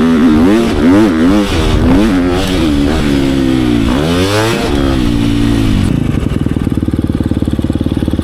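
Dirt bike engine revving up and down under throttle, then settling to a steady idle about six seconds in.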